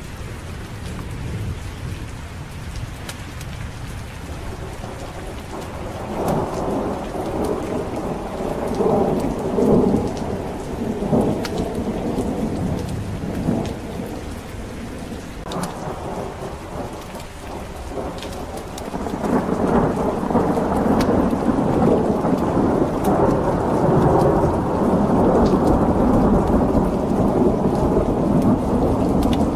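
Steady heavy rain with rolling thunder. A rumble swells about six seconds in and dies away, then a longer, louder roll starts about two-thirds of the way through and keeps going.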